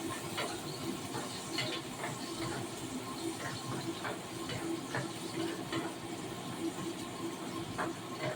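Food sizzling in a frying pan: a steady hiss with scattered small pops and crackles.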